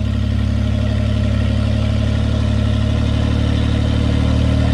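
Off-road 4x4 engine running steadily at a constant speed, with a low, even drone.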